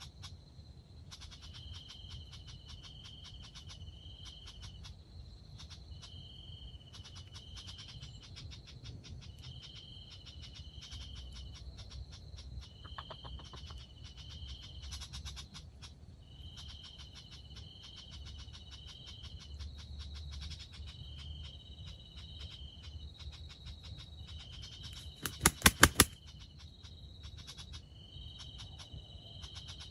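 Insects chirping in rapid, high-pitched pulsing trills that repeat in short phrases. Near the end, a quick run of about five loud, sharp clicks.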